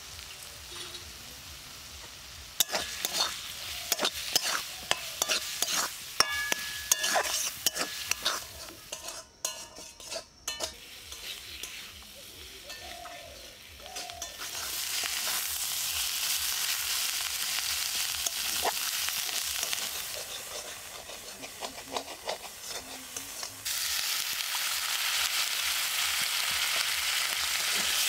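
Dry fish chutney frying in oil in a metal wok, stirred with a metal spatula that scrapes and knocks against the pan. Later the steady sizzle takes over, growing louder twice.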